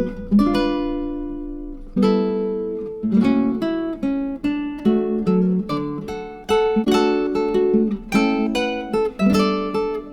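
Background music: acoustic guitar playing plucked and strummed chords, each ringing out before the next.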